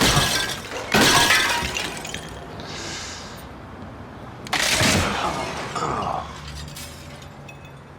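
Glass shattering and breaking in several crashes, the loudest about a second in, with another crash a little before the midpoint.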